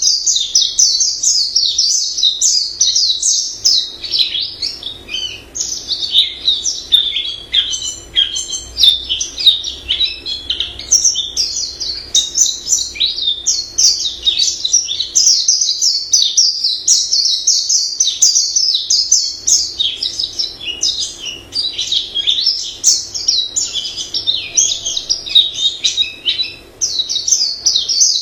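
White-eye singing a long, varied warbling song: a continuous run of rapid high twittering notes with only brief breaks.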